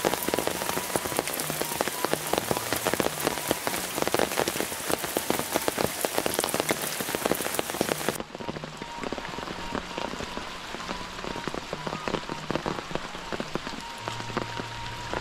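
Steady rain falling, a dense patter of raindrops. About eight seconds in it turns softer and duller.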